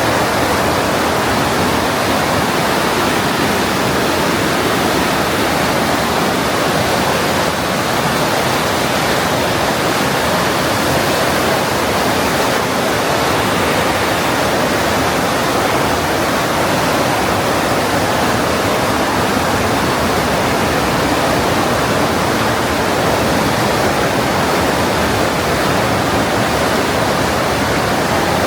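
Partnach River's glacial meltwater rushing through the narrow gorge: a loud, steady wash of fast whitewater.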